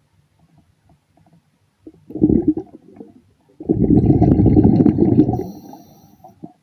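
Underwater bubbling rush of a diver's exhaled breath past the microphone: a short burst about two seconds in, then a longer one of nearly two seconds.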